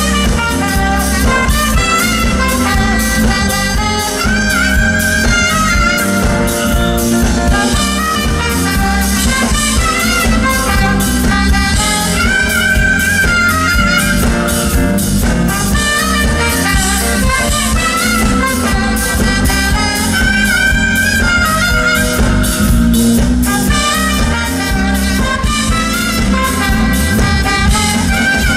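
Live smooth jazz band: saxophone playing a melody over drums and bass.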